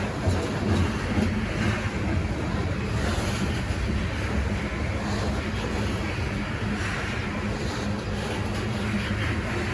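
BNSF freight train rolling past: a steady low rumble with no horn, with wind buffeting the microphone.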